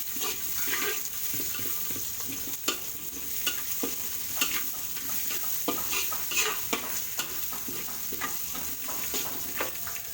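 Onion and garlic frying in hot oil, a steady sizzle, stirred in the pan with frequent short scrapes and taps against it.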